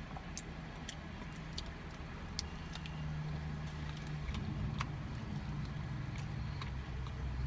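Close-up chewing of a crunchy peanut protein bar: small crisp clicks scattered irregularly over a steady low hum.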